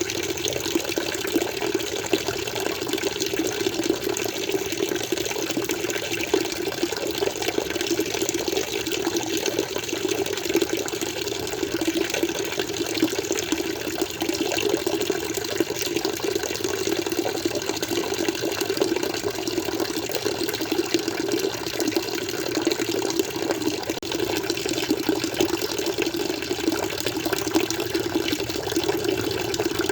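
Flowing water running steadily and continuously, a constant rushing with no breaks or changes.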